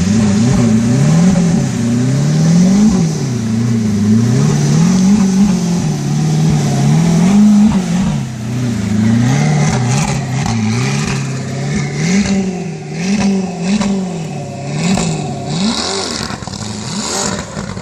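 Supercar engine revved repeatedly, its pitch rising and falling about once a second, with quicker, shorter blips in the second half. Scattered clicks and knocks sound alongside it later on.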